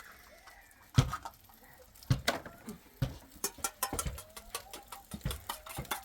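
Irregular knocks and clicks: single sharp knocks about a second apart at first, then quicker, denser clicking in the second half.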